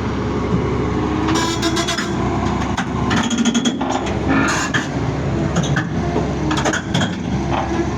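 Large excavator's diesel engine running under load, its pitch shifting, with repeated sharp metallic clanks throughout.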